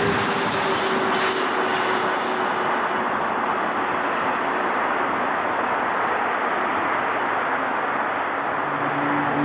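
Jet airliner engines passing close by: a steady, loud rush of noise with a whine that slides down in pitch and fades out about halfway through.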